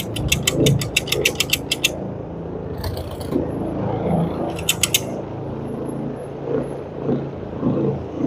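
Rapid, even mechanical clicking, about eight clicks a second, that stops about two seconds in, over a low steady machine hum. A short hiss comes about three seconds in, and a brief run of clicks follows near five seconds.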